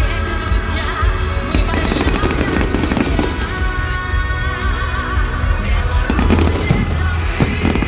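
Fireworks display: a rapid run of shell bursts and crackles over a deep rumble of booms, with festive music playing at the same time.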